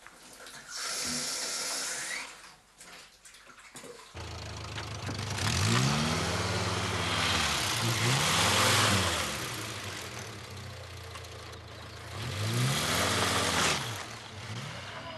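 A vehicle engine starting about four seconds in, then revving up and down several times over a steady low running note.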